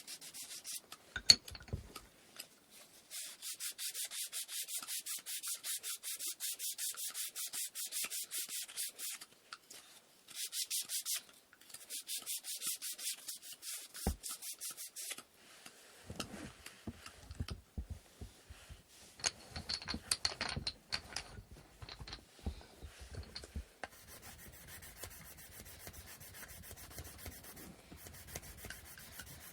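Wooden inkle loom parts being sanded by hand: quick, even back-and-forth rubbing strokes in runs with short pauses. Later the rubbing turns irregular with soft knocks as the wood is handled, and near the end it goes fainter and steadier. A sharp click comes about a second in.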